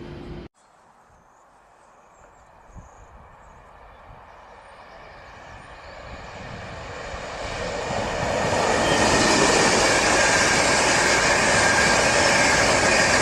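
Express passenger train approaching and passing at speed. Its noise swells steadily over several seconds into a loud, even rush of wheels on rails as the coaches go by.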